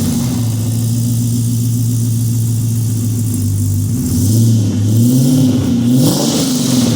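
Built LS1 V8 in a 1964 Chevelle running shortly after a cold start. It idles steadily for about four seconds, then is given a few light throttle blips, the pitch rising and falling each time.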